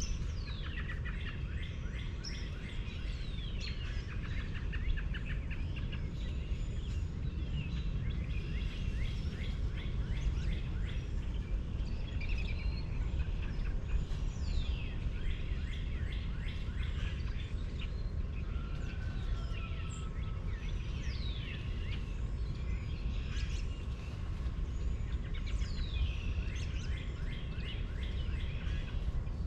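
Several birds chirping and calling, with quick falling whistles and rapid trills, over a steady low rumble.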